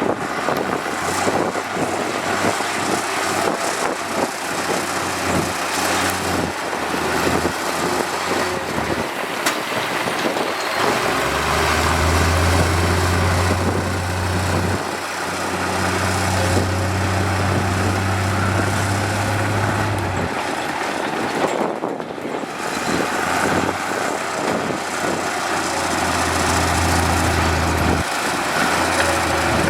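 Heavy diesel construction machinery running, a steady engine sound over broad mechanical noise. A low engine hum grows strong about ten seconds in, drops away briefly about two-thirds of the way through, and returns near the end.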